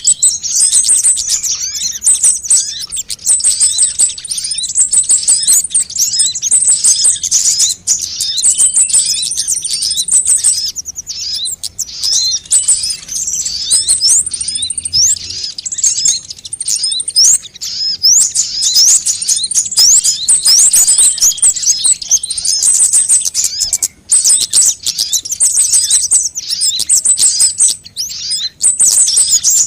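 Sunbirds calling: dense, high-pitched chirps and rapid trills from several birds at once, overlapping with no pauses.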